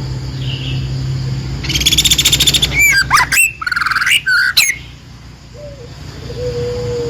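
A songbird singing: a rapid buzzy trill about two seconds in, running into loud sweeping whistled notes that stop near the five-second mark, over a steady low hum. A faint low drawn-out note follows near the end.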